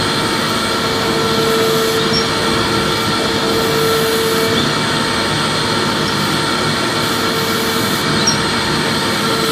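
Vacuum cleaner motor running steadily: a constant whooshing hiss with a steady hum tone that weakens about halfway through and comes back near the end.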